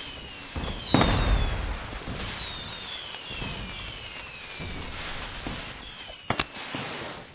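Fireworks going off: several overlapping whistles that each fall in pitch, a heavy bang about a second in, and two sharp cracks near the end.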